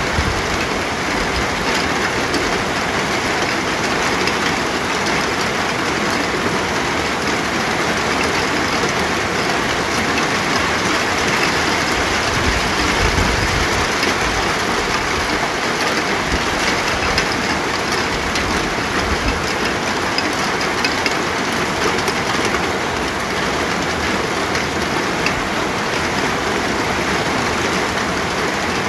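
Steady heavy rain: a dense, even hiss of falling rain with scattered drop ticks, and a little more low rumble about halfway through.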